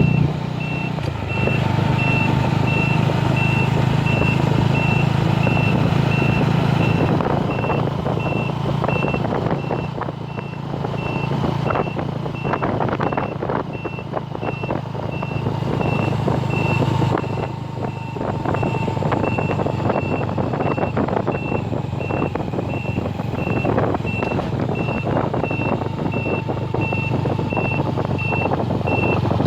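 An electronic warning beeper sounding at an even, rapid pace over a vehicle engine running, with rough rushing noise throughout; the engine hum drops back about halfway through.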